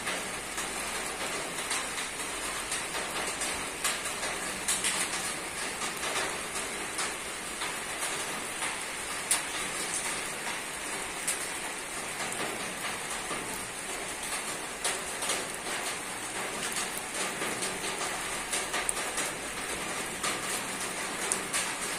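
Steady rain hitting a roof, a constant patter with scattered louder drops striking close by.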